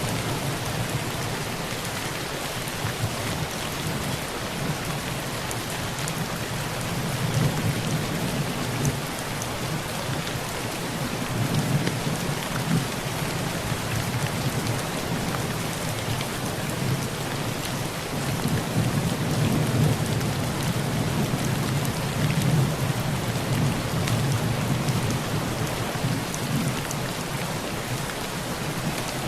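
Heavy rain falling steadily on a tin roof, with low thunder rumbling in the background and swelling a few times.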